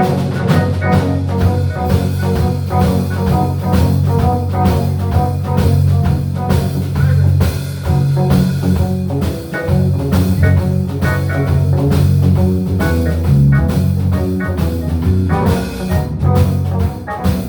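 Live band playing a blues through a I–IV–V progression: guitar over a steady bass line and drums.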